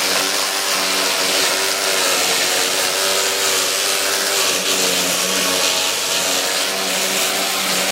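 A power tool running steadily under load: a loud hiss over a steady motor hum, cutting off abruptly near the end.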